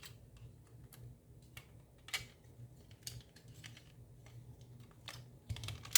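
Scattered small clicks and taps of an Xbox controller's plastic case parts being handled and fitted together. There is a single click about two seconds in and a quick cluster near the end, the sharpest click just before the end.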